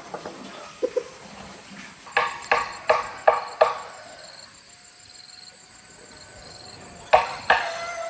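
Sharp knocks of a tool striking wood: five quick blows about a third of a second apart, then two more near the end, with a faint ringing after them.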